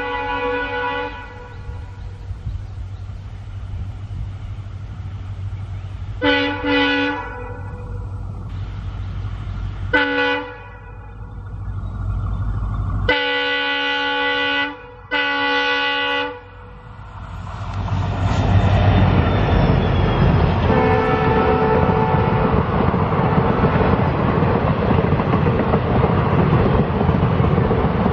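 Horn of a 4500 hp EMD WDP4D diesel locomotive, with its two-stroke engine, sounding in about five blasts: one ending about a second in, one at about six seconds, a short toot at ten, then two longer blasts close together. Then the locomotive and its passenger coaches pass close by, with engine and wheel noise steady and loud for the last ten seconds.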